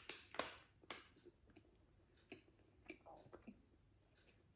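Biting into and chewing a Snickers bar close to the microphone: a few sharp crunches in the first second, then faint, sparse chewing clicks.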